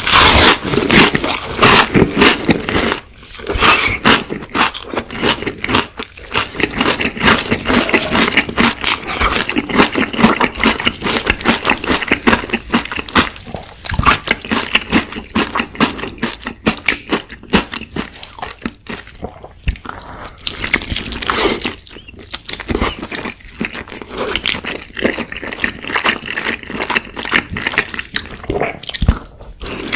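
A person eating: loud, crisp crunching bites and chewing, with many quick crunches following one another.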